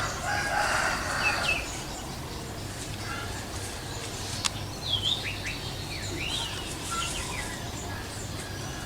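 Sirtu bird calling in short, quick chirping notes, in a brief run about a second in and a busier run of chirps between about five and seven seconds, with a single sharp click midway.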